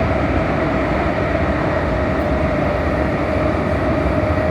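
Prague metro Line A train running between stations, heard from inside the carriage: a steady rumble of wheels on track with a steady whine above it.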